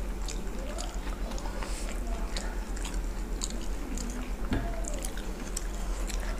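Two people eating by hand close to a table microphone: irregular wet chewing and mouth smacking with small clicks.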